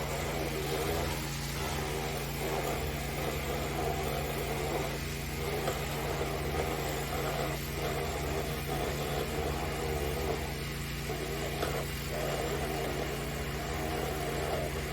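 Pressure washer engine running steadily while a dual turbo nozzle on an extension wand blasts water into a gutter, the rushing spray rising and falling as the wand moves.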